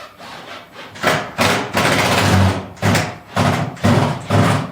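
A sliding door being pushed back and forth along its track: a run of short rumbling strokes with one longer slide near the middle, as the newly fitted door is tried for fit.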